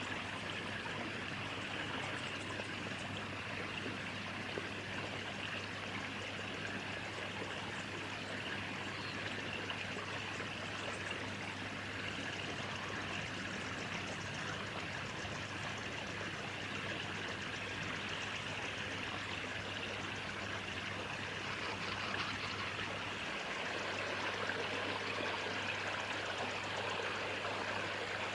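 Steady outdoor background noise: an even hiss, strongest in the upper-middle range, with a faint low hum underneath.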